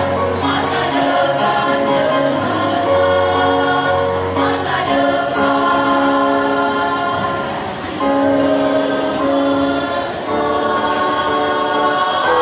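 A choir of kindergarten teachers singing in parts, holding long sustained chords, with brief dips between phrases.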